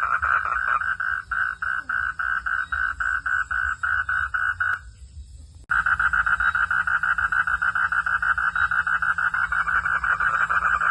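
Frogs calling in a chorus of rapid pulsed calls, about four a second. The chorus drops out abruptly about five seconds in, then returns denser after a short gap.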